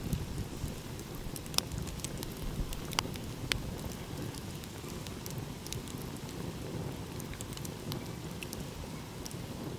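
Wood fire crackling, with scattered sharp pops, the loudest about a second and a half in and twice around three seconds in, over a low steady rumble of ocean waves.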